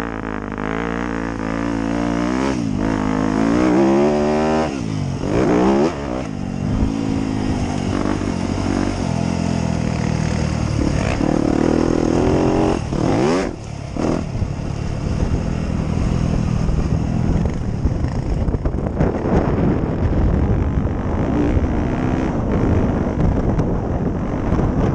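Motocross dirt bike engine revving as it is ridden, pitch climbing and falling several times as the throttle opens and closes. In the second half the engine sound turns rougher and more noise-like.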